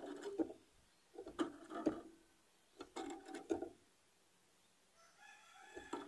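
A bird calling in four short phrases, each about a second long with pauses between; the last phrase, near the end, carries thinner whistled notes.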